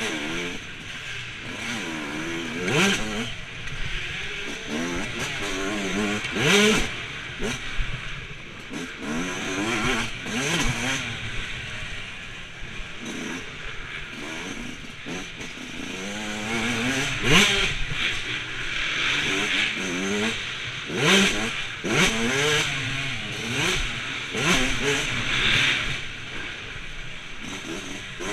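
Motocross dirt bike engines revving up and down over and over as they ride the track, the pitch climbing hard then dropping every second or two, with louder bursts of throttle now and then.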